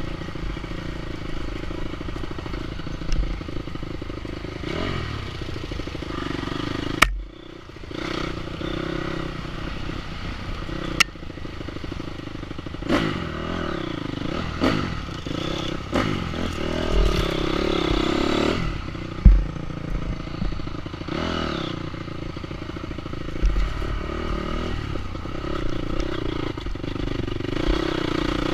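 Enduro motorcycle engine revving up and falling off again and again while riding, with clatter and several sharp knocks, and the engine nearly cutting out once about seven seconds in.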